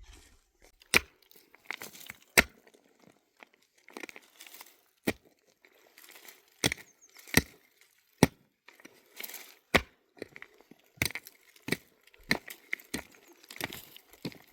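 Wood being worked by hand: an irregular series of sharp knocks and cracks, roughly one a second, with rustling and scraping between them.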